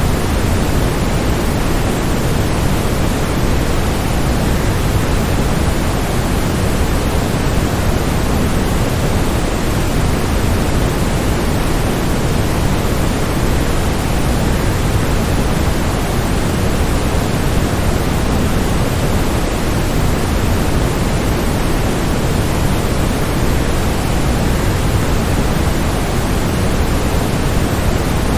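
Waterfall: a steady rush of falling water, an even hiss heavier in the low end, with no change in level.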